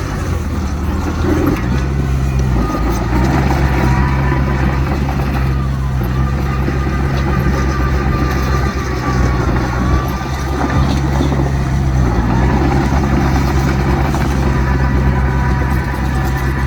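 Heavy diesel engines of earthmoving machinery running steadily, the low engine note shifting slightly a couple of times, with a thin high whine wavering above it.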